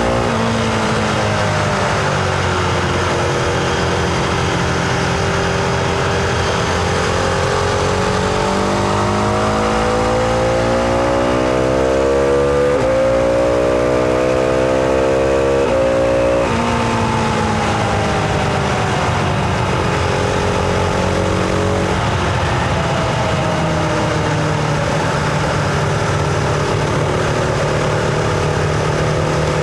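Husqvarna Vitpilen 701's single-cylinder engine heard onboard while riding. The engine note climbs steadily under acceleration through the middle, drops sharply about sixteen seconds in, then falls away as the bike slows and settles to a steadier speed.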